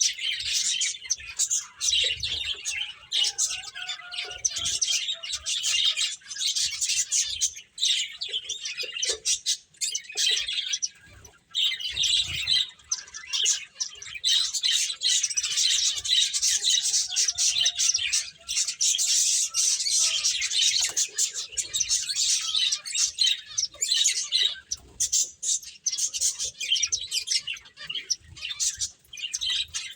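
Finches chirping busily, a dense run of short high chirps and tweets with only a brief lull about halfway through.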